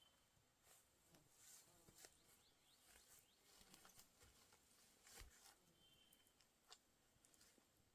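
Near silence: faint outdoor ambience with scattered small ticks and rustles.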